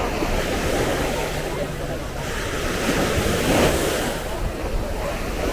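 Mediterranean waves washing onto a sandy beach, a steady surf noise that swells and eases, with wind buffeting the microphone.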